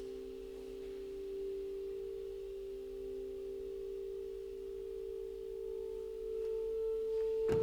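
Contemporary chamber music: two close, pure-sounding sustained pitches held steadily, with fainter higher tones, swelling slightly near the end. A sudden struck attack comes right at the close.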